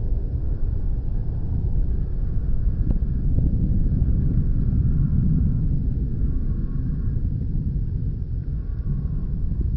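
Jet airliner engines at takeoff power, a steady deep rumble that builds to its loudest about halfway through and eases slightly after.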